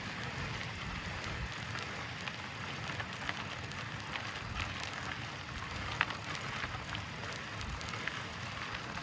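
Mountain bike climbing slowly in its easiest gear: a steady crackling rustle of the tyres rolling over the dirt trail, with a few sharp clicks now and then.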